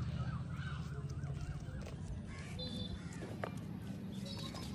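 Birds calling: a quick run of rising-and-falling chirps in the first second or so, then a few brief high chirps, over a steady low hum. A single small click about three and a half seconds in.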